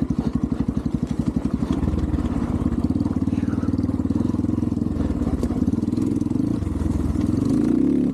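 Single-cylinder four-stroke 250cc dirt bike engine (Xpro Templar X 250) running at low revs with distinct, evenly spaced firing pulses. About two seconds in, the revs pick up and the note smooths out, growing louder toward the end.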